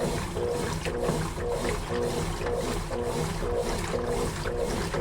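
Consul Facilite CWG11 top-loading washing machine agitating laundry in water during its soak stage: the motor hums and the agitator swishes back and forth about twice a second.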